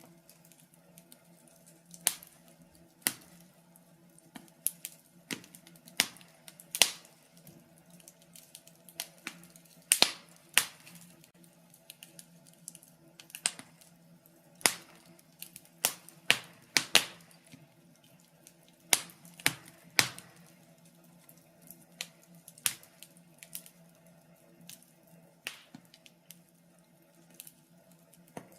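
Wood fire in a fireplace crackling: sharp, irregular pops and snaps, a couple every second or so at uneven spacing, some much louder than others, over a faint steady low hum.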